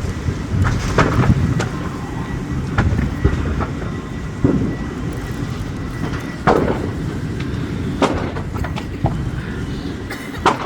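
Steady low rumble with a sharp knock or pop every second or two, and a faint steady high tone for a few seconds starting about two seconds in.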